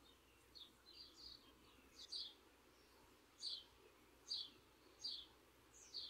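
A bird chirping faintly outdoors: a series of short, high, slightly falling chirps, about one a second, louder in the second half, over a quiet background.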